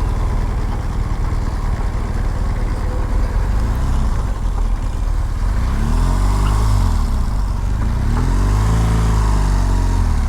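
BMW R1200GS boxer-twin motorcycle engine heard through a helmet microphone, a steady low rumble with road and wind noise. In the second half the engine pitch rises and falls twice as the bike accelerates and then eases off.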